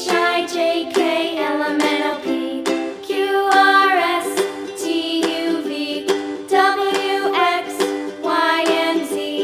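Background music: a bright, plucked, ukulele-like tune with a melody line over it, in a steady rhythm.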